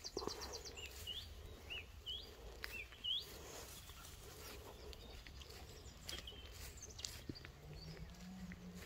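Wild birds calling: a string of short, high chirps, each rising at the end, repeated every half second or so, faint over a low rumble. A low hum comes in near the end.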